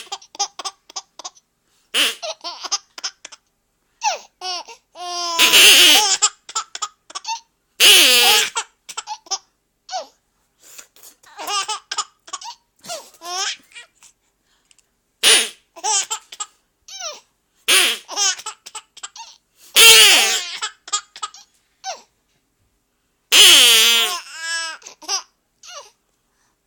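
A five-month-old baby giggling and laughing in repeated short fits at a toy that makes duck sounds, with the toy's quacks in between. The loudest bursts come about every few seconds.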